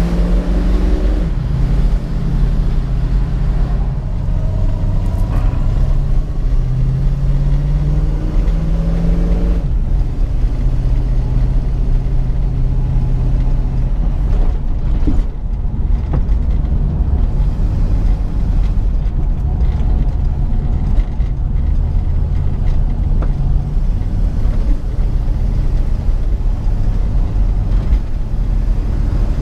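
1967 Ford Mustang's 289 V8 engine pulling the car along, its pitch climbing in several steps through the first ten seconds, then running steadier over a low road rumble.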